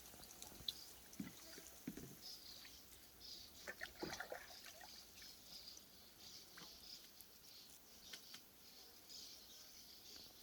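Quiet nature ambience of birds chirping: short high notes repeating over a steady hiss, with a few soft clicks and knocks.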